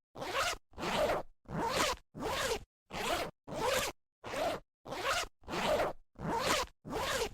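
A zipper being zipped open and closed over and over, about eleven quick half-second pulls at nearly two per second.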